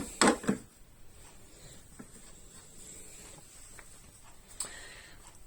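Mostly quiet room with a few faint, separate light clicks and taps: a cup being handled and set in place under the espresso machine. A short voice sound comes at the very start.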